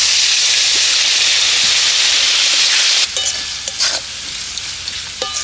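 A splash of water hitting hot oil and ground spices in a metal wok sizzles loudly, added so the masala won't burn. About three seconds in it dies down to a softer sizzle, with a steel spatula scraping and stirring the masala in the pan.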